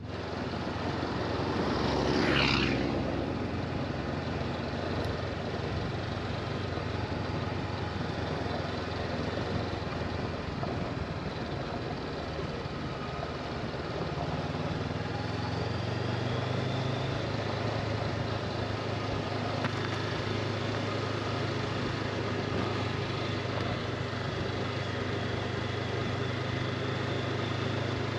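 Motorcycle engine and wind noise while riding, steady throughout. There is a brief louder swell about two seconds in, and from about halfway a steady low engine hum stands out.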